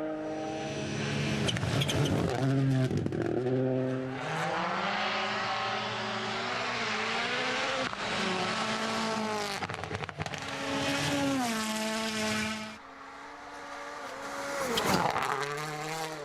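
Rally car engine running hard on a snow stage, its pitch climbing and dropping sharply again and again with gear changes and lifts off the throttle. It eases off about three-quarters of the way in, then a car goes past with a loud rise and fall in pitch.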